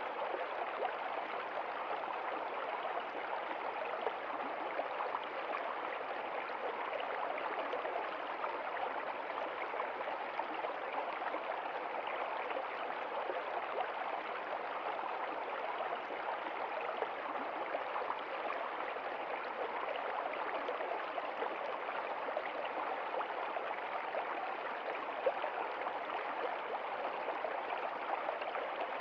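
Water of a stream flowing steadily, an even rushing sound without pause.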